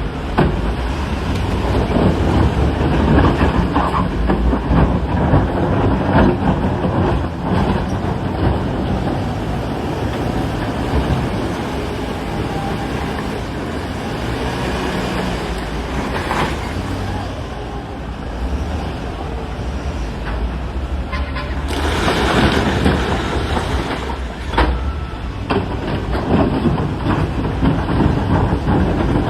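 Diesel engine of heavy quarry earthmoving machinery running and working, with scattered knocks and clatter. The engine gets louder and rougher for a couple of seconds about three quarters of the way through.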